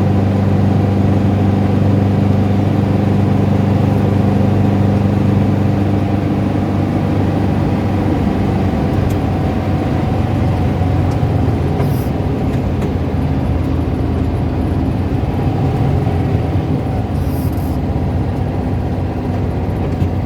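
Car engine running at low revs with the rattling, tapping noise that shows at lower revs.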